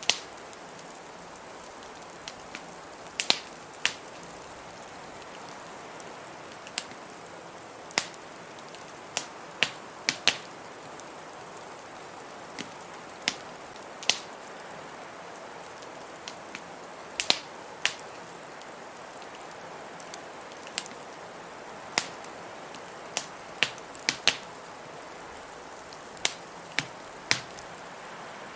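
Wood fire crackling in a fireplace: irregular sharp pops and snaps, one or two a second, over a steady hiss.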